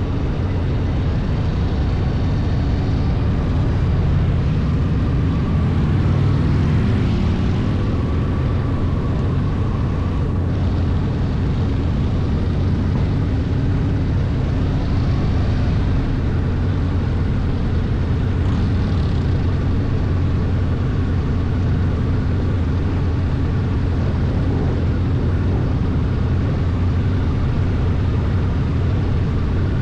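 Motorcycle engine running steadily at a cruise, a deep even drone with no revving or pauses.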